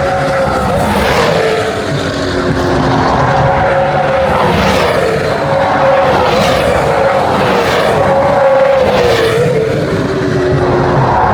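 Race cars passing at speed one after another, about four in quick succession, with engine pitch rising and falling as each goes by.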